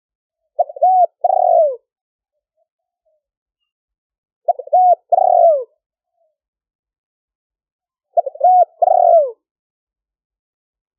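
Spotted dove cooing: three phrases about four seconds apart. Each phrase is a couple of short notes followed by a longer coo that falls in pitch at its end.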